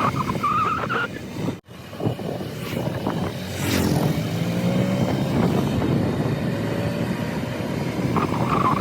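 Motor vehicle running on the road, a steady engine and road noise with the sound briefly dropping out about a second and a half in. A little past the middle an engine tone rises and falls in pitch.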